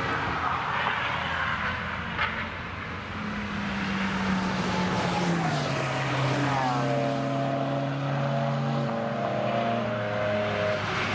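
Several cars at speed on a race track going by one after another, their engines overlapping. Midway, one engine's note drops as a car passes close and pulls away.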